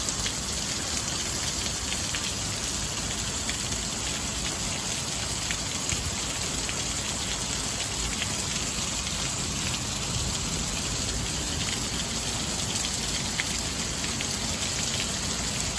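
Very heavy rain pouring steadily, with a dense hiss and scattered individual drops ticking sharply close by.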